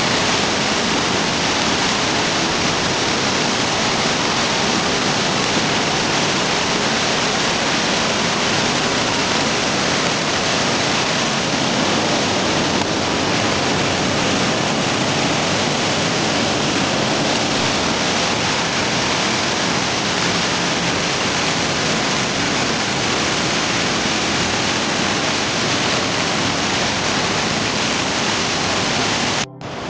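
Steady rushing of fast-flowing water, an even, loud torrent noise with no pattern, briefly cutting out near the end.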